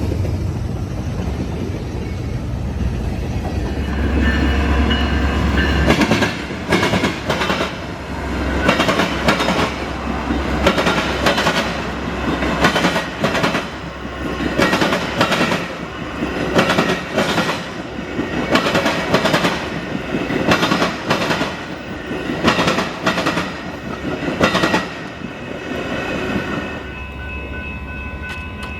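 A train rolling past with a low rumble, then a long run of sharp clickety-clack as its wheels strike rail joints, in clusters of knocks. The clacking eases off near the end.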